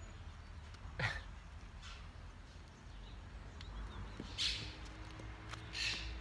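Short, scratchy bird calls: one about a second in, then two more near the end, over faint outdoor background noise.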